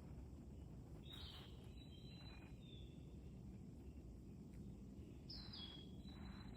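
Faint bird calls: two short runs of high whistled notes, about a second in and again about five seconds in, each opening with a falling note, over a low steady background noise.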